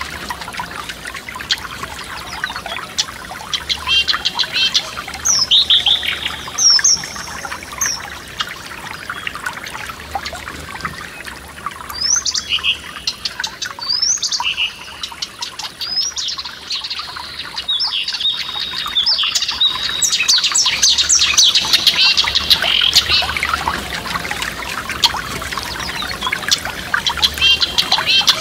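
Several songbirds chirping and singing in quick, repeated phrases, busiest in the middle and later part, over the steady trickle of a forest stream running over stones.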